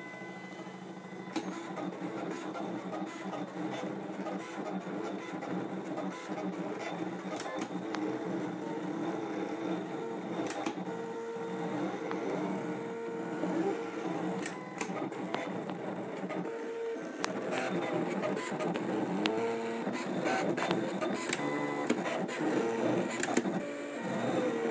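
Craft Robo desktop vinyl cutter cutting a decal: its stepper motors whir, the pitch shifting in steps every second or so as the blade carriage and the paper rollers change direction, with scattered clicks.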